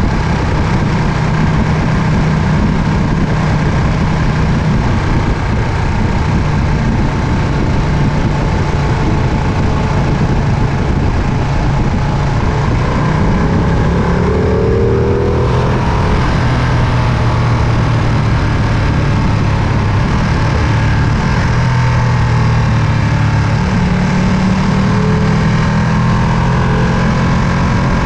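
Ducati Panigale V2's 955 cc L-twin engine running, its note stepping up and down a few times with the throttle.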